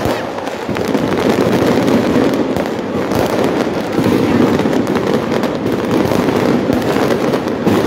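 Fireworks going off overhead, a rapid, continuous crackle of many small pops and bangs, over the steady din of a large outdoor crowd.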